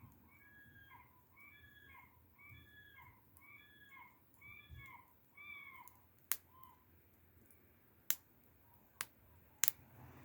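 A bird calling outdoors in a run of about eight short, arching notes, roughly one and a half per second, for the first half. Then four sharp pops, the loudest sounds, from burning wood crackling in a bonfire.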